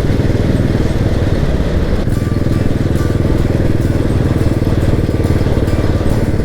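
Motorcycle engine running steadily under way, a close, even low-pitched pulsing of its firing strokes heard from on board the bike.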